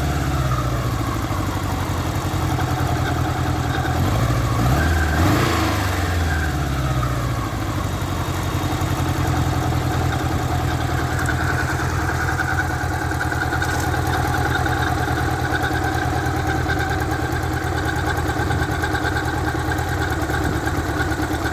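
1986 Honda Gold Wing 1200 Aspencade's flat-four engine idling, revved once briefly about five seconds in, with a steady high-pitched squeal running over the idle that grows stronger in the second half.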